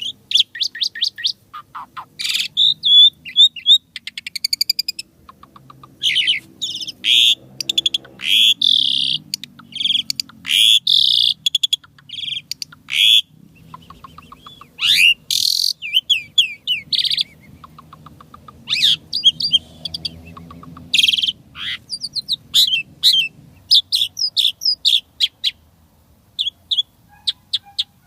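Jalak suren (pied starling) singing a long, varied song of rapid chattering notes, fast trills and sweeping whistles, broken by short pauses.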